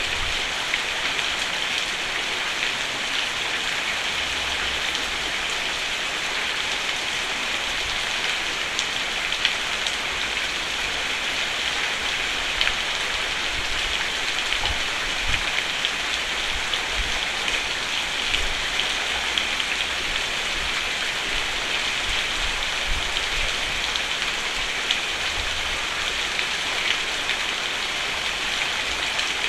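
Steady rain falling on a roof, an even hiss with scattered drop ticks.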